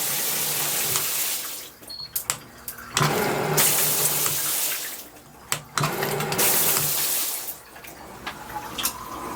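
Water spraying hard from a shower head, cut off and started again: three spells of steady hiss with short quiet gaps and a few clicks between them, as the flow is stopped or diverted between outlets.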